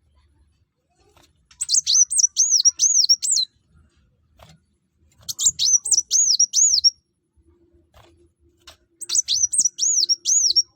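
Kolibri wulung sunbird singing: three quick high phrases, each a rapid run of sharp arching notes, a couple of seconds apart.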